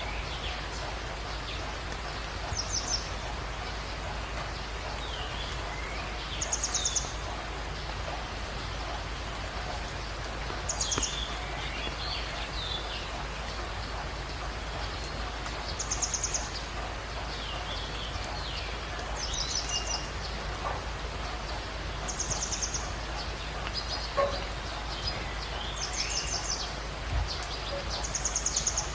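Birds calling: one repeats a short, high, fast trill every three to four seconds, with scattered lower chirps between, over a steady hiss.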